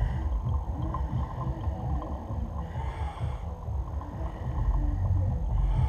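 Hot water being poured from a kettle into a coffee filter, under a gusty low rumble of wind on the microphone.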